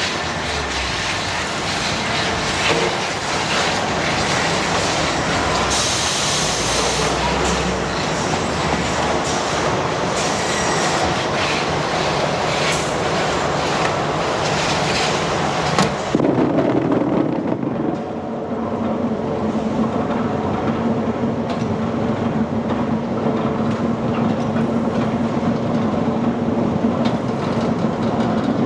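Factory machinery running with a continuous rattling clatter. About halfway through the sound changes abruptly to a duller, steadier machine hum with a held low tone.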